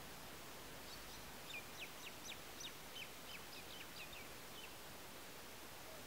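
A bird calling: a quick run of about a dozen short, sharp, falling notes, some three a second, starting about a second in and stopping shortly before the end, over a steady hiss.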